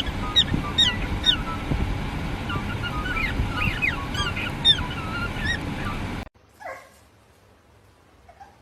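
Animal calls: many short, squeaky rising and falling cries over a loud noisy background. About six seconds in, this cuts off abruptly to a quiet stretch with a few faint whines.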